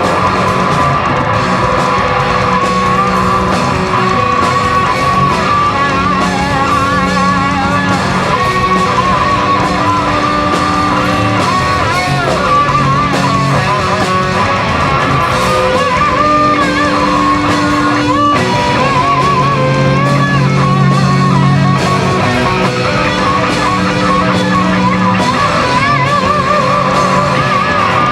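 Live rock band playing an instrumental passage, an electric guitar carrying a lead line with bent and wavering notes over sustained bass notes, loud and continuous.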